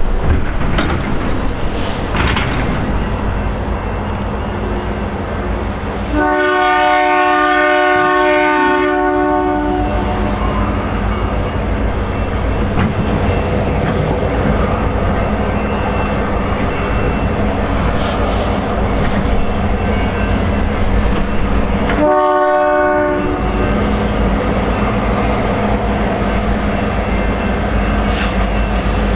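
CN freight train's diesel locomotives sounding a multi-note air horn: a long blast about six seconds in and a short blast about twenty-two seconds in, over the train's steady rumble and wind on the microphone.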